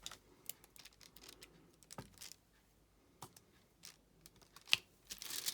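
Light, irregular clicks and taps of a diamond painting pen pressing resin drills onto the adhesive canvas and picking them from the plastic tray, with a louder cluster of clicks near the end.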